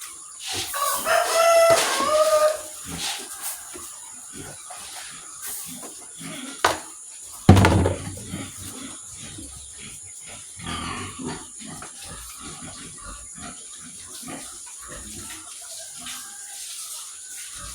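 Farmyard animal sounds: a rooster crows once about a second in, pigs grunt at times, and a single loud thump comes about halfway through.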